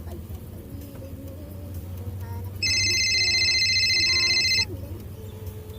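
A steady electronic ringing tone, like a telephone ringer, starts about two and a half seconds in and cuts off after about two seconds. Faint voices are heard under and around it.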